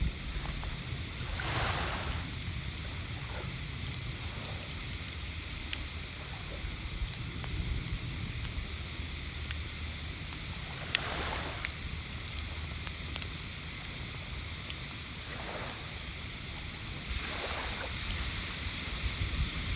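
Waves washing on the shore with wind on the microphone, a soft surge every few seconds, and a few faint sharp ticks.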